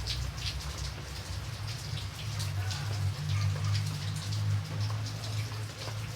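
Steady rain with distinct drops striking a surface, over a low steady hum.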